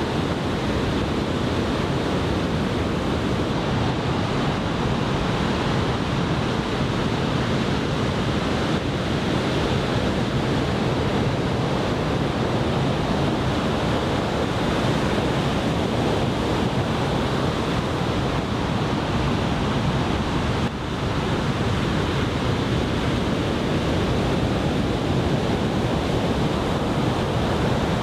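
Ocean surf from a large typhoon swell breaking on the beach: a continuous, dense rush of waves, with wind buffeting the microphone.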